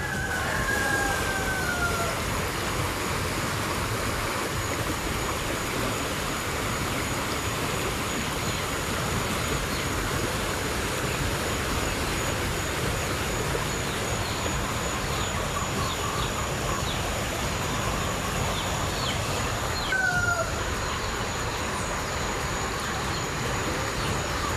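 Heavy tropical rain pouring down over flooded ground, a steady noisy rush. A bird's short falling call sounds just after the start and again about twenty seconds in.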